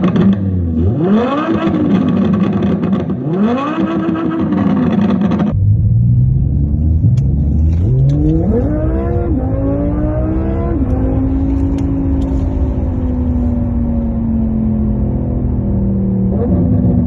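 Synthesized engine sound from an ENGINEVOX active electronic exhaust system on a Tesla Model 3 electric car. It revs up and back down twice, then after an abrupt cut it accelerates with the pitch climbing in steps, like gear changes, before settling into a steady note that sinks slowly.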